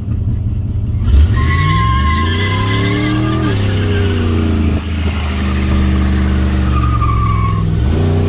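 John Deere 70 skid steer engine running and being revved: its pitch climbs about a second in, holds, drops back and rises again near the end. A high squeal comes and goes twice over the engine.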